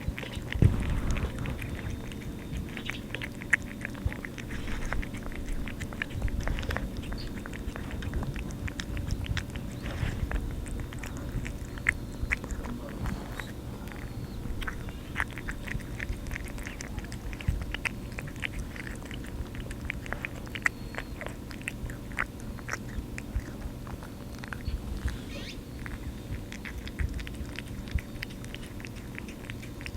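A cat eating wet food from a can, close to the microphone: a steady run of small, quick chewing and licking clicks. A low steady hum runs underneath.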